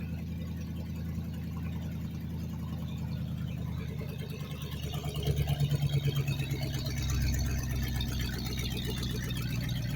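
Mercedes S55 AMG's supercharged 5.4-litre M113K V8 idling through open headers with no catalytic converters: a steady, loud exhaust note. About halfway through, it swells and pulses for a second or so before settling back.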